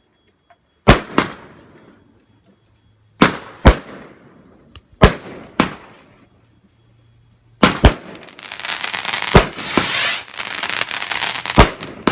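Fireworks going off: several sharp, loud bangs, mostly in pairs, each with a short echoing tail. A little past halfway a dense crackling hiss sets in, with a few more bangs through it.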